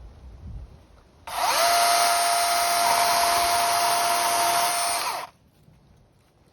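Electric power-tool motor spinning up quickly to a steady high whine, running for about four seconds, then cutting off abruptly.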